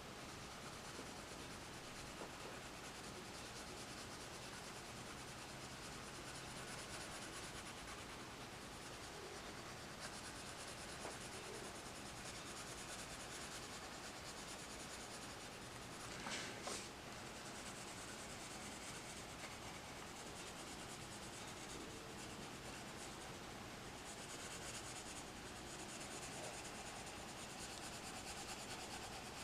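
Coloured pencil scratching steadily on paper as leaves are shaded in, with a brief louder scrape or tap about sixteen seconds in.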